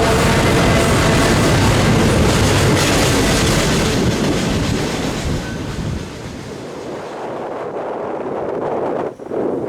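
Freight train cars rolling past on the rails, with a steady loud rumble and clatter of steel wheels that fades about six seconds in as the train moves away. Gusts of wind hit the microphone near the end.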